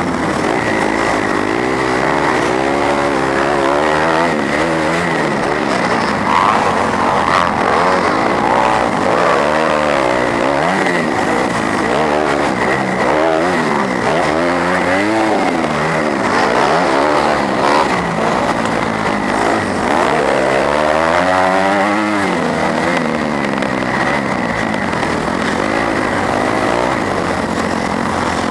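A 250cc four-stroke motocross bike's engine, heard from on board, revving up and down over and over as it accelerates, shifts and backs off around the track.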